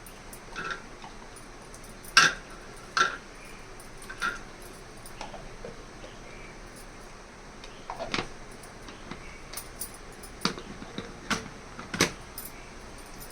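Kitchen utensils and cookware clinking and knocking: about eight sharp clinks at uneven intervals, a few with a short ring.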